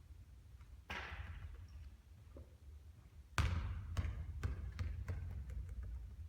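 A basketball hits something about a second in with a short rattle. About three and a half seconds in it lands hard on the court and bounces again and again, the bounces coming quicker and quicker as the ball settles.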